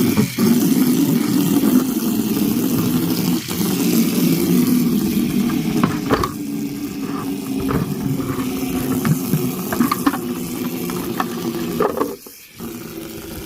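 Plastic chicken drinkers being scrubbed out with a Scotch-Brite scouring pad: a steady, rough scrubbing sound with scattered short scrapes.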